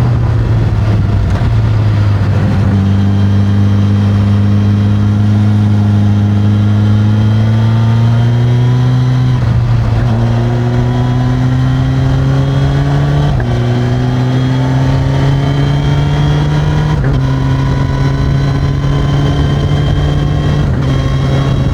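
Suzuki GSX-S1000 inline-four engine through its stock exhaust, ridden under load: the engine note climbs slowly in pitch and changes abruptly every few seconds, as at gear changes.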